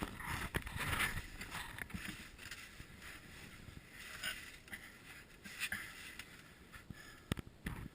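Irregular scraping and rustling of clothing and body against rock as a caver squeezes through a narrow crack, with a few sharp knocks, the clearest one near the end.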